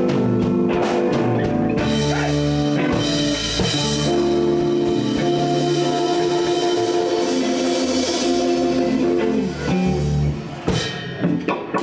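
Live blues band playing an instrumental passage on electric guitar, bass and drum kit, with held chords and drum hits. The band stops near the end, leaving a few scattered drum taps.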